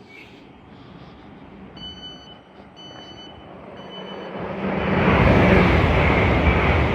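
Train warning beeps sounding three times, about a second apart, followed about four and a half seconds in by a train running loudly past the platform with a deep rumble.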